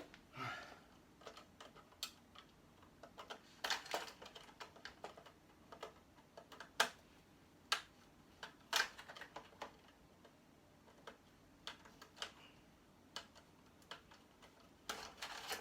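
Irregular small clicks and taps of hand tools and parts being handled while dismantling electronic scrap, with a few louder knocks among them.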